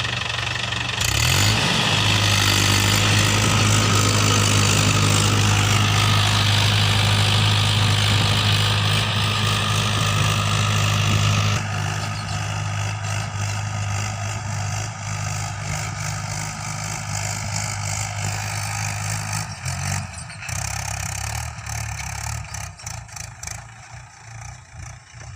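Mahindra 575 DI tractor's four-cylinder diesel engine running steadily. It gets louder about a second in, drops back about halfway, and fades toward the end.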